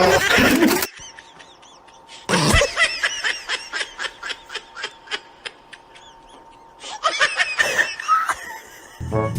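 Laughter: a quick run of short, high giggles, about four a second, trailing off. A louder burst of laughing comes around seven seconds in.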